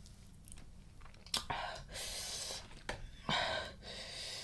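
Close-miked eating of spicy blue crab salad: chewing, with a few sharp mouth clicks and two longer breathy hisses, one about a second and a half in and one past three seconds.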